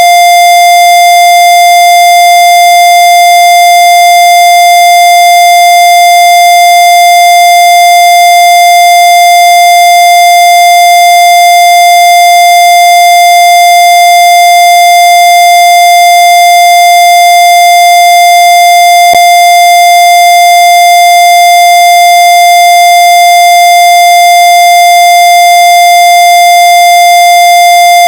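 Loud, steady electronic tone held at one unchanging mid pitch with a harsh buzzy edge of overtones. A faint click comes about two-thirds of the way through.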